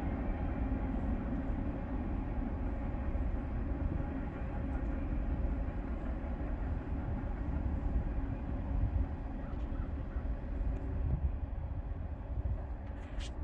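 Low, steady rumble of a long coal train moving away down the line, slowly getting fainter. A single sharp click comes near the end.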